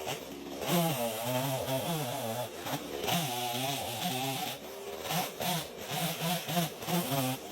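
Chainsaw running, its engine pitch rising and falling again and again as it revs and works through wood.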